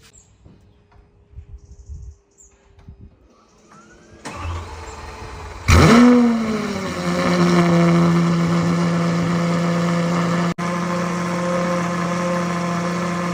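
Lamborghini Aventador SVJ's V12 with a Gintani exhaust cold-starting. After a few quiet seconds a rising sound comes in, then the engine fires with a very loud flare about six seconds in, its pitch dropping. It then settles into a steady, ridiculously loud fast cold-start idle.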